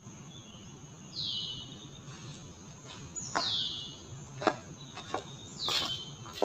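A bird calls three times, each a short whistle sliding downward, over a steady high insect drone. A few sharp clicks come in between.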